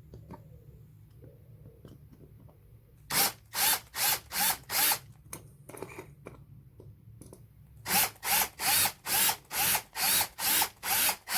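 Small electric drill run in short trigger bursts, drilling out the rivets that hold the base of a diecast toy truck. About three quiet seconds with faint clicks, then a quick run of about five bursts, a pause, and another run of about eight near the end, each with a brief rising whine as the motor spins up.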